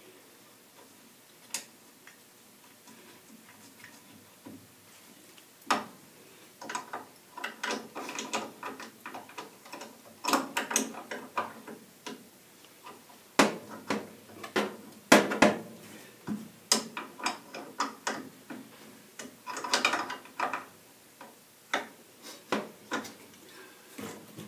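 Irregular clicks, clinks and knocks of fittings and parts being handled and fitted while a furnace gas valve is reconnected. They start about six seconds in and come thickly through the rest.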